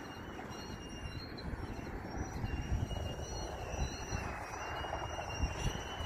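Freight train rumbling along the line at a distance, with a faint high-pitched wheel squeal.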